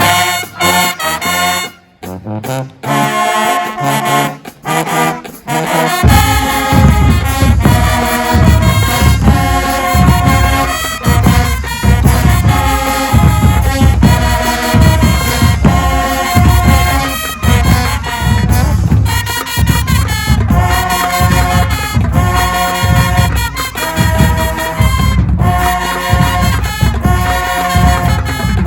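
Marching band brass playing loud stabs and held notes with short gaps; about six seconds in the full band comes in with a heavy low end and a driving beat.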